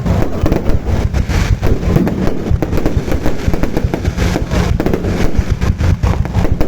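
Fireworks going off: a dense, continuous run of loud bangs and crackles with a low rumble underneath.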